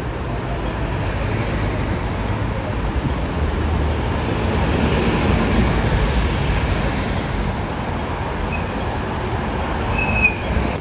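Heavy vehicle running past with a steady low rumble that swells midway and then eases, and a short high squeal near the end.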